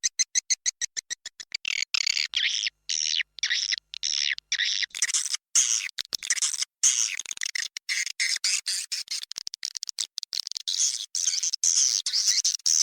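Swiftlet calls: a rapid run of short chirps, about seven a second, for the first two seconds, then dense high twittering in broken bursts with short gaps. It is a recording of the roosting calls played to lure swiftlets into a nesting house.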